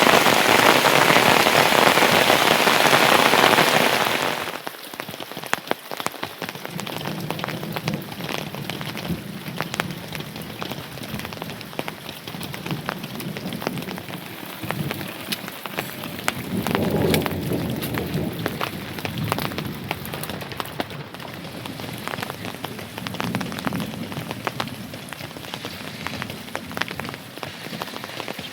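Rain falling: a heavy, dense downpour for the first few seconds, then an abrupt change to lighter rain with many separate drops pattering and dripping. A low rumble swells briefly about halfway through.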